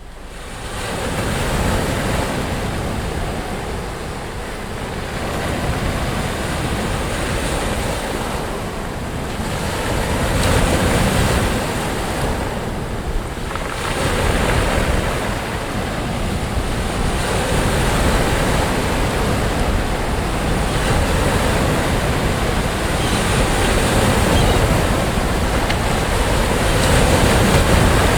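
Sea waves breaking and washing on a beach, swelling and easing every few seconds, with wind buffeting the microphone.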